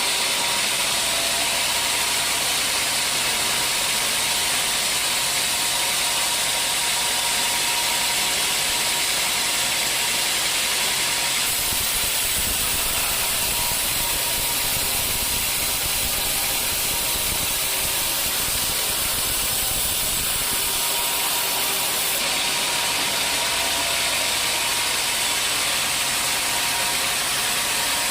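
Sawmill saw running steadily through dry old teak: a constant loud hiss with steady whining tones, the sound shifting somewhat lower about a third of the way in and back again about two-thirds in.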